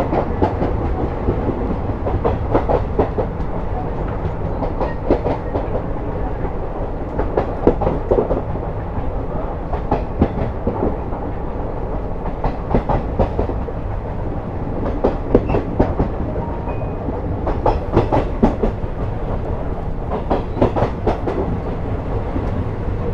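Passenger train running along the track: a steady low rumble, with clusters of wheel clicks over the rail joints every two to three seconds.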